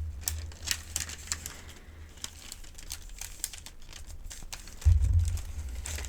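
Paper medication guide crinkling and crackling as it is folded and handled, in many small crisp crackles. A low thump with a brief deep rumble about five seconds in, as the paper is set down or bumped.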